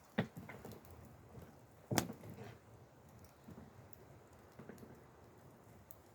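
A few sharp knocks and clicks at irregular intervals, two louder ones about two seconds apart, with fainter taps between.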